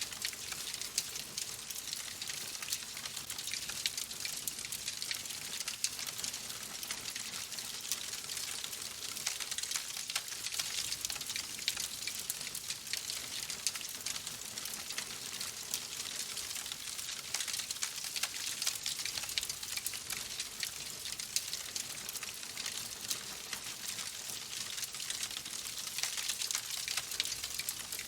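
Wood fire crackling in a fireplace: a steady, dense run of small pops and snaps over a soft hiss.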